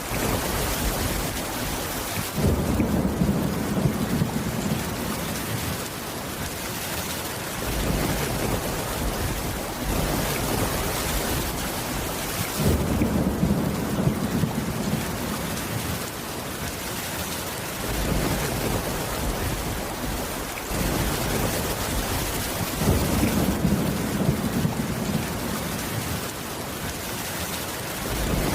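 Steady heavy rain, with a low rumble of thunder swelling and fading three times, about every ten seconds.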